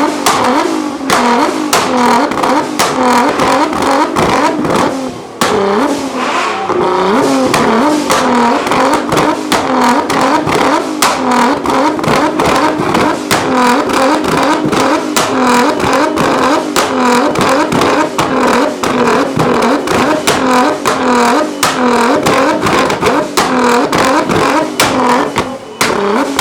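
Tuned Nissan GT-R R35's twin-turbo V6 revved over and over in quick rising blips, with a constant rattle of sharp pops and bangs from the exhaust.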